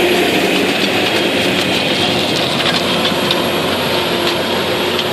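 John Deere 2020 tractor engine running steadily, with light rattling ticks in the second half.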